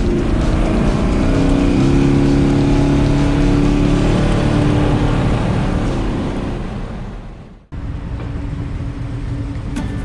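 Restomod 1970 El Camino's engine running while driving, its note steady and stepping up about two seconds in. It fades out about seven seconds in, and after a brief break a different steady sound follows.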